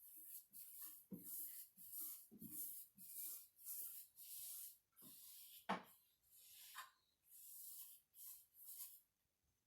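Faint swishing strokes of an applicator spreading polyurethane over a wooden chest, about one or two strokes a second, with one light knock a little past halfway.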